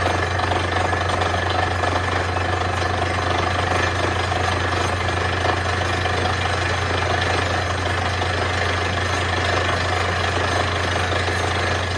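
Borewell drilling machine drilling, a loud steady machine sound that runs without a break.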